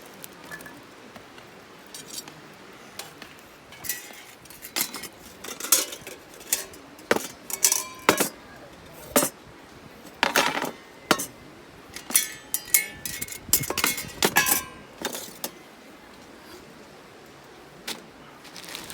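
Metal camp gear clinking and rattling as it is handled: a busy run of knocks and jingles, some ringing briefly, from about four seconds in until about fifteen seconds, then a single clink near the end.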